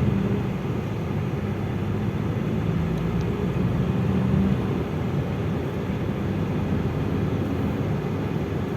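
Dongfeng truck's diesel engine running steadily under way, heard inside the cab with road noise.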